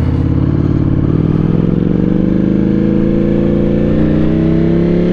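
Ducati Panigale V4 sport bike's V4 engine pulling under steady acceleration, its pitch climbing slowly and evenly through one gear, heard from the bike itself.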